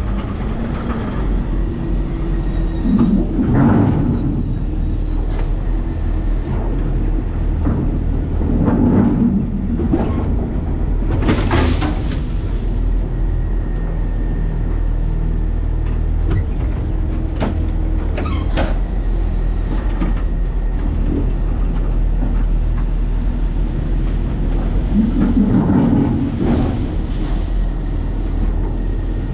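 Garbage truck with a New Way Sidewinder side-loader body, heard from its hopper: the engine runs with a steady low drone, and louder surges and rattles come every few seconds.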